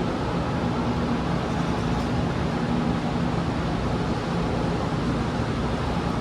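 Steady rumble and rush of a KTX-Cheongryong high-speed train running, heard inside the passenger cabin, with a faint low hum.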